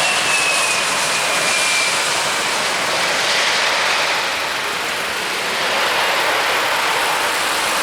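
Jet airliner's engines passing close by as a steady loud rush, with a whine that slides down in pitch over the first two seconds.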